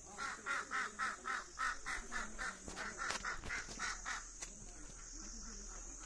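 A caged bird calling in a fast, even run of short repeated calls, about four a second, that stops a little past four seconds in.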